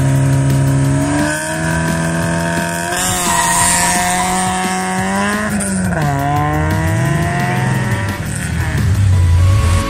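Opel Corsa GSi rally car engine held at high revs on the start line, then launching away. The pitch climbs through the gears and falls sharply at each upshift, twice, about three and six seconds in.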